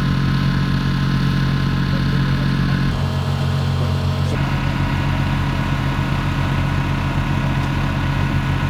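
Monster truck engine idling steadily with a lumpy, pulsing low beat.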